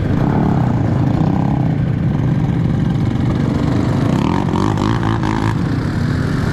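Enduro motorcycle engine running and revving, its pitch rising and falling with the throttle.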